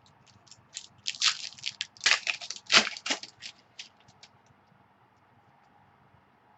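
Crinkling plastic being handled, a burst of dense crackles lasting about two seconds, most of it in the first half.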